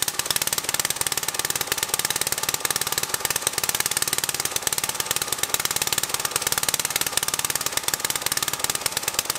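Small air-cooled engine of a homemade garden tractor running steadily at idle, firing in a rapid, even beat. It is running again after almost 20 years abandoned.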